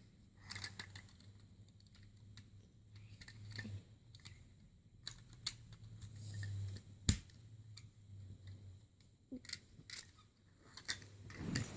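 Light, scattered clicks and taps of plastic toy pieces being handled, with one sharper click about seven seconds in, over a faint steady low hum.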